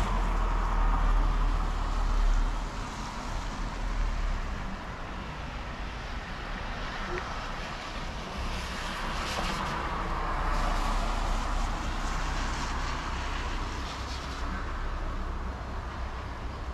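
Thunder rumbling low and deep, easing after about two and a half seconds, over a steady rushing hiss from the storm.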